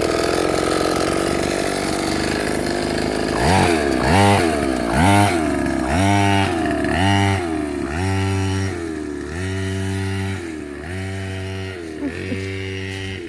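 Small kids' dirt bike engine running steadily, then from about three and a half seconds in revved up and down again and again, roughly once a second, each rise held briefly before dropping.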